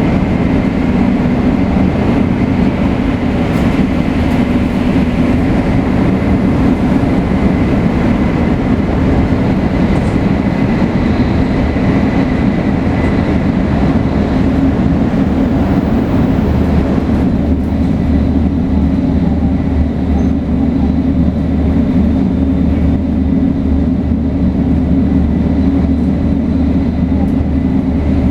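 Running sound of a 500 series Shinkansen with Toshiba GTO-VVVF traction, travelling at speed: a continuous loud rushing noise with a faint high steady tone. About seventeen seconds in the tone fades, the sound turns duller and a low hum comes in.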